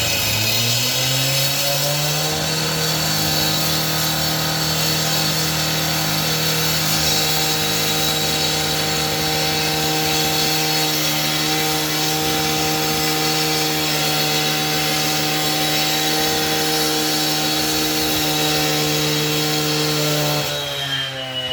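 A power saw making a long cut. Its motor climbs in pitch over the first couple of seconds, runs at a steady pitch, then drops near the end.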